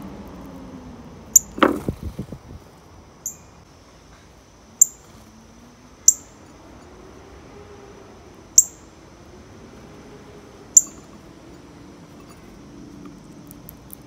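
A bird gives single sharp, high chip notes, six in all, about every one and a half to two and a half seconds. The loudest sound is a quick run of rattling knocks about a second and a half in.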